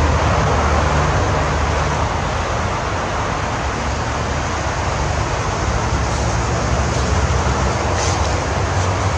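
A steady rumbling hiss of outdoor background noise, with a few faint short ticks near the end.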